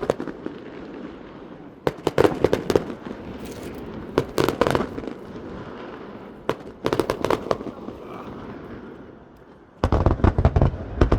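Aerial fireworks bursting: clusters of sharp bangs and crackles every two seconds or so, then a dense, rapid run of crackling bangs with a low rumble starting near the end.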